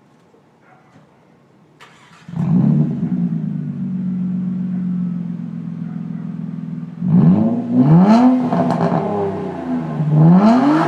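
2002 Nissan Maxima SE's 3.5-litre V6 heard through a custom 2.5-inch cat-back exhaust with no resonator and an Aero Turbine 2540i muffler. It starts about two seconds in, settles to a steady idle, then is blipped several times in quick rising revs near the end.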